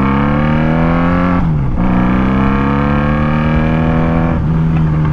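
1996 Honda Magna 750's V4 engine accelerating hard through the gears: its pitch climbs, drops at an upshift about a second and a half in, climbs again, and drops at a second upshift near the end before holding steady.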